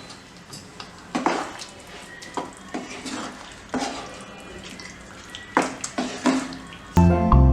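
A metal utensil clinking and scraping against a cooking pot, with several sharp knocks, over a wet sloshing of watery curry. Music starts near the end.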